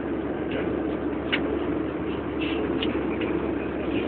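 Steady drone of an airliner cabin in flight, with a few faint light clicks.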